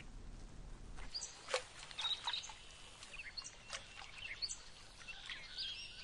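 Birds chirping: a scatter of short, high-pitched calls with quick rising and falling notes, starting about a second in.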